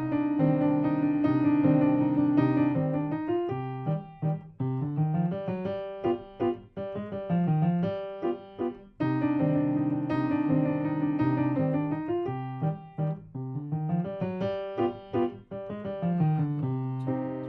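Piano playing a short C-minor student piece with both hands, starting loud (forte) with accented notes and connected phrases; the opening phrase comes back about nine seconds in.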